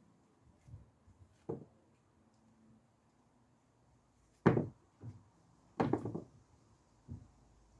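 A few dull thumps and knocks from potatoes being harvested by hand, the loudest about halfway through and a quick cluster soon after.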